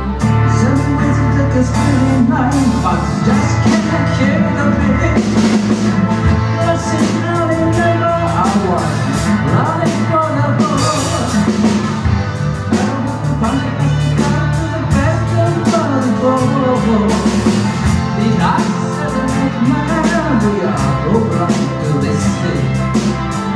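Live rock band playing: drum kit, bass and electric guitars, loud and continuous.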